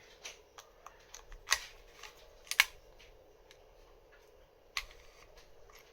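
Key being worked in a Lagard 2200 lock, giving scattered sharp metallic clicks: the loudest about one and a half and two and a half seconds in, another near five seconds.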